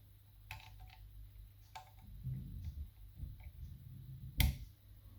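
Lever lock picking tools working inside a mortice lock: a few small metallic clicks as the levers are nudged, with a sharper click about four seconds in and some low handling noise.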